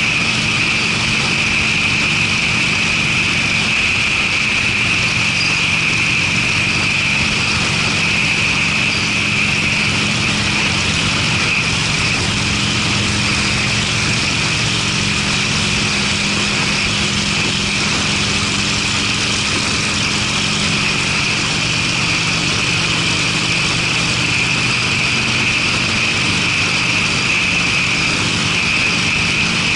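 Harley-Davidson Sportster's air-cooled V-twin running through Screamin' Eagle mufflers at a steady cruise. The engine note holds even under a constant rush of road and wind noise.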